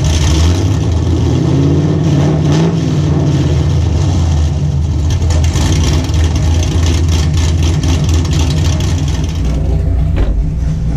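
Car engine idling loudly through an exhaust with the axle-back mufflers removed. It is revved once, rising and falling back between about one and three seconds in, then runs at a steady idle.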